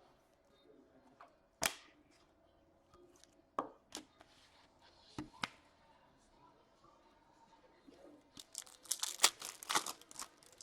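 Foil wrapper of an Upper Deck SP Authentic hockey card pack being handled and torn open: a few separate crackles, then a quick run of tearing and crinkling near the end.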